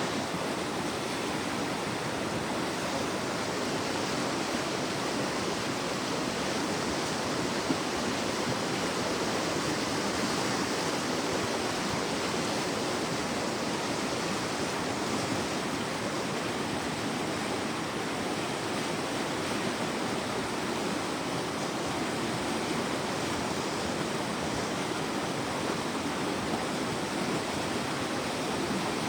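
Floodwater rushing down a swollen river after heavy thunderstorms, a steady, unbroken sound of fast, turbulent water.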